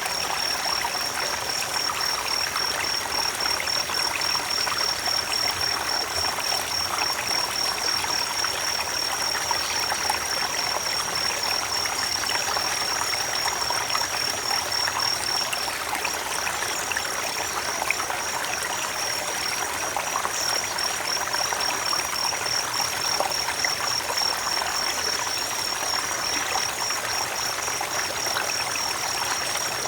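Creek water running and trickling over stones, a steady rushing with fine splashing detail. A thin, high, pulsing trill runs over it throughout.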